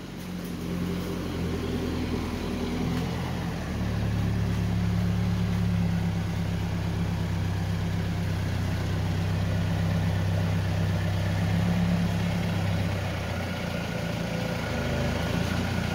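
A vehicle engine running steadily, then taking more throttle about four seconds in and holding a louder, deeper pull.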